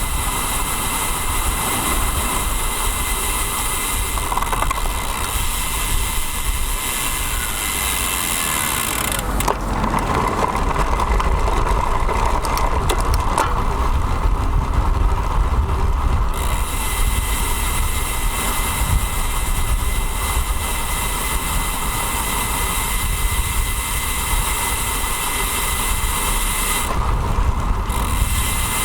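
Wind rushing over a bike-mounted action camera's microphone while riding a road bike, mixed with road and traffic noise. The high hiss thins out for several seconds in the middle.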